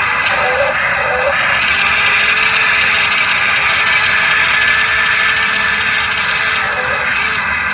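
Radio-controlled model excavator running with a steady mechanical whirr, a little fuller about a second and a half in.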